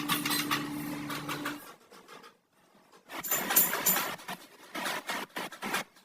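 A motor running with a rapid ticking clatter, cutting off about one and a half seconds in; after a short pause, a run of irregular clicks and taps.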